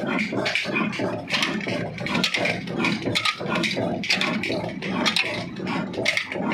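Old Ruston Hornsby diesel engine running at slow speed, with a continuous uneven thumping.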